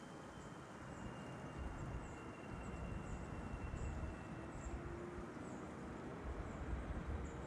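Boeing 777F freighter's twin GE90 turbofan engines rumbling on approach, growing louder about a second and a half in, with a faint high whine that slowly falls in pitch.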